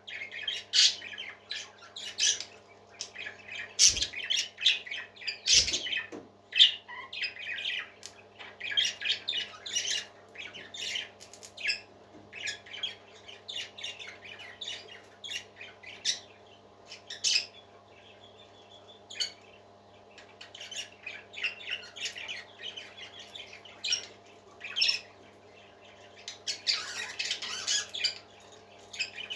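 Pet parakeets chattering, chirping and squawking continuously in a small room, a rapid overlapping stream of short calls. Two sharp knocks sound about four and six seconds in.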